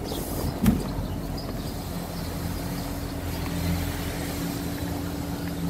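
Car engine running at low speed, a steady low hum heard from inside the cabin, with a single sharp click about a second in.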